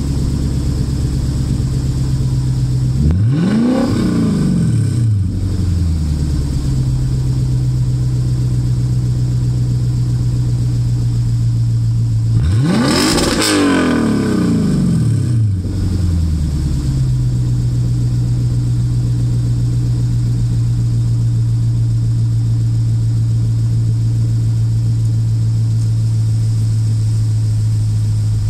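Lexus IS F's 5.0-litre V8 breathing through a custom valved exhaust without resonators, idling steadily and revved twice: a short blip about three seconds in and a bigger, higher rev about twelve seconds in, each falling back to idle.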